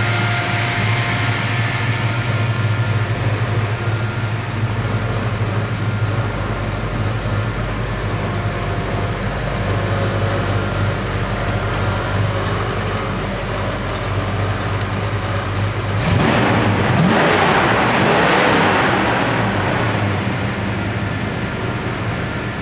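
1969 Plymouth Road Runner's 383 V8 idling steadily, then revved briefly about sixteen seconds in, the note rising and falling before settling back to idle.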